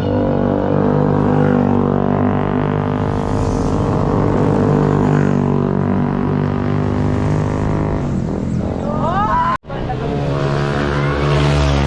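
Motorcycle engine droning steadily at cruising speed, heard from the bike itself, with a short break about two-thirds of the way through.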